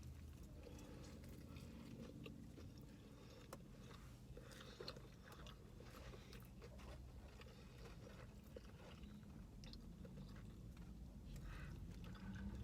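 Faint chewing of a crunchy fried chicken sandwich: soft crunches and scattered mouth clicks over a low steady hum.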